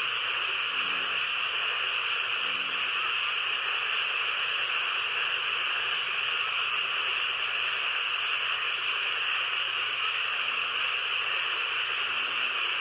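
Steady, even high-pitched hiss with no change in level, with a few faint short low tones underneath about a second in, around two and a half seconds in and near the end.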